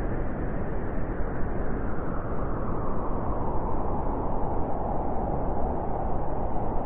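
Winter wind blowing steadily, a low full rushing with no gusts or breaks; a slightly higher hollow tone near the middle of the sound strengthens in the second half.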